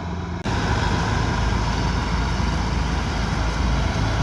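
Kubota DC108X combine harvester running steadily under harvesting load, its engine and machinery making a continuous mechanical drone. The sound jumps abruptly louder about half a second in.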